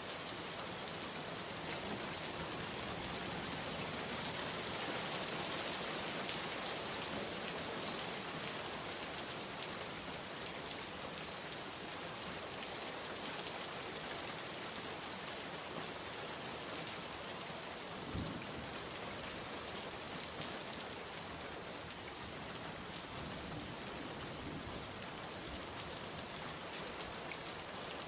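Steady rain falling and pattering on a surface, with one brief low knock about two-thirds of the way through.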